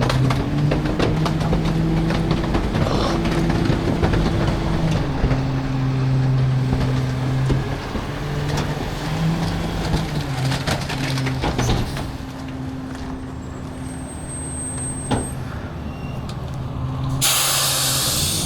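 Garbage truck engine running, its pitch stepping up and down, with scattered knocks and clatter. A loud air-brake hiss breaks in about a second before the end.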